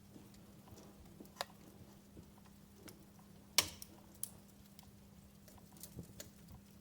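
Wood fire crackling in a fireplace: a few scattered sharp pops and snaps, the loudest about three and a half seconds in.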